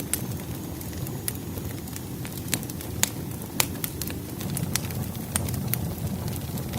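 Wood fire crackling: irregular sharp pops and snaps over a low, steady rumble of burning logs, with a few louder pops in the middle.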